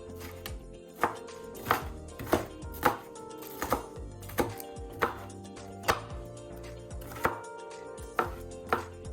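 A kitchen knife chopping green pepper, with sharp, uneven strokes about once or twice a second.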